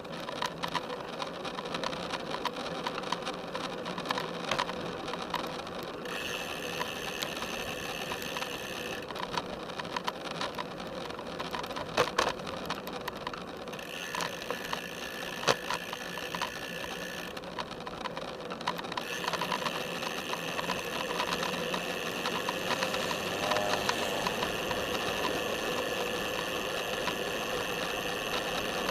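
Road bike riding along a paved path, heard from a camera strapped to its top tube: steady tyre and road noise with frame rattles and occasional sharp knocks. In several stretches the rear freewheel's rapid ticking comes in while the bike coasts, longest in the second half.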